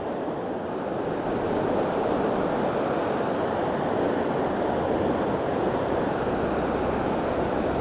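Steady rush of surf washing onto a beach.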